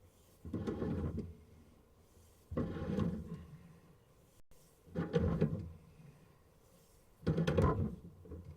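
Sewer scope camera push cable being fed into the drain line by hand in strokes: four sliding scrapes about two seconds apart, each under a second long.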